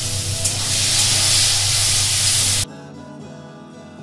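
Loud sizzling of chopped tomatoes and green chillies frying in hot oil in a kadai, cutting off suddenly a little over halfway through; background music plays throughout.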